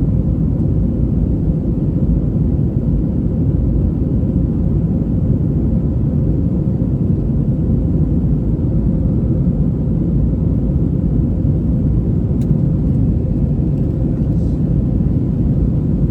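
Steady low rumble of an Airbus A321 cabin in flight: engine and airflow noise with a faint steady hum.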